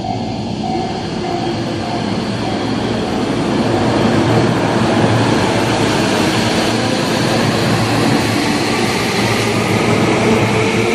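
An electric commuter train running on the track, its wheel and running noise growing louder about four seconds in.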